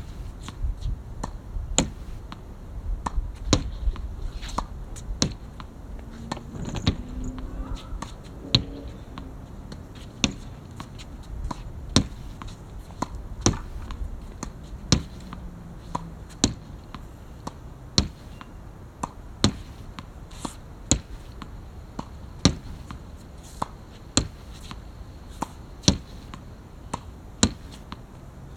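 Badminton racket striking shuttlecocks: sharp cracks, several close together at first, then settling into an even rhythm of about one hit every second and a half, as in a shuttle-feeding drill.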